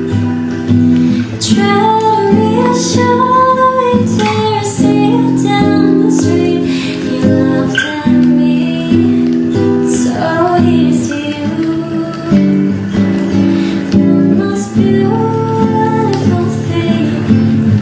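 Music: a woman singing over acoustic guitar.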